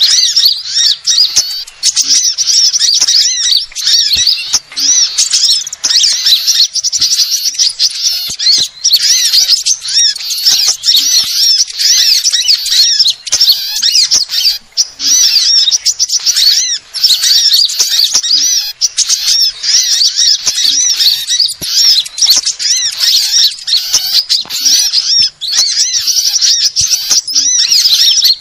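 Small songbirds chirping and twittering, a dense, unbroken stream of fast, high-pitched calls, played as a bird-lure recording for sunbirds.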